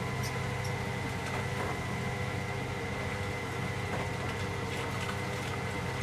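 An Electra AWF683 washing machine running a 95° boil wash, giving a steady low motor hum with a thin, steady high whine over it.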